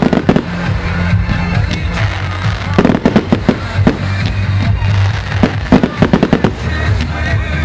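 Display fireworks going off in quick runs of sharp bangs, several times, with music playing underneath.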